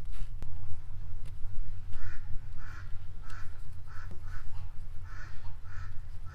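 A bird calling in a quick series of about eight short calls, starting about two seconds in, over a steady low rumble.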